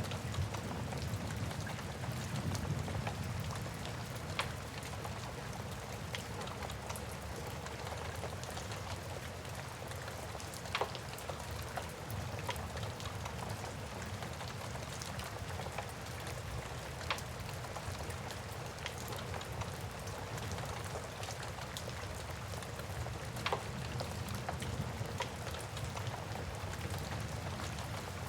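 Steady rain ambience with a low rumble, overlaid with the sharp crackles and pops of a wood fire every few seconds.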